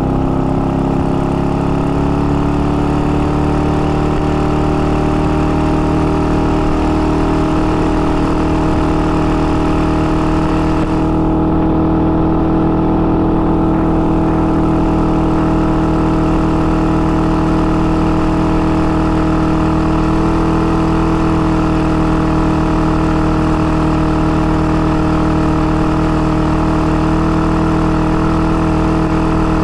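IZh-49's single-cylinder two-stroke engine running at an even speed. Its pitch rises slightly just after the start and then holds steady. The engine is freshly rebuilt with an oversize 75 mm piston and is being run in.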